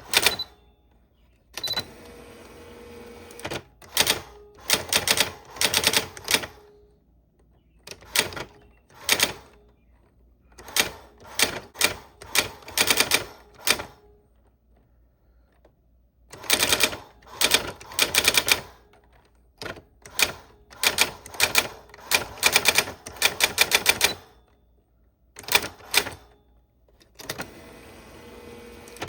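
Old typewriter being typed on: keys struck in quick runs of clacks with short pauses between them, and a softer, steadier rasping stretch about two seconds in and again near the end.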